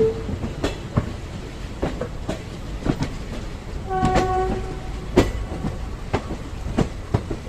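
Passenger train running, its wheels clacking over rail joints in irregular sharp clicks over a steady low rumble. A short horn note sounds about four seconds in, lasting about half a second.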